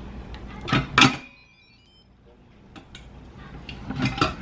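Sharp clicks and knocks from handling an electric pressure cooker: a loud pair about a second in and more near the end.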